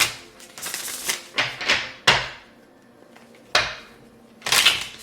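A deck of tarot cards being shuffled and handled: about six short papery slaps and riffles, each one sharp at the start and fading quickly, with brief pauses between them.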